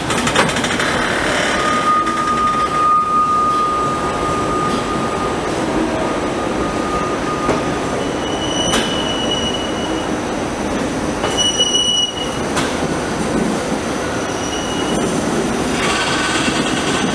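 A train moving along the station tracks, its wheels squealing on the rails in several held high-pitched tones that come and go over a steady rumble.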